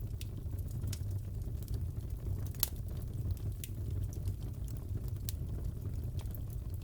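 Crackling fireplace: a steady low rumble with scattered pops and snaps, one louder snap about two and a half seconds in.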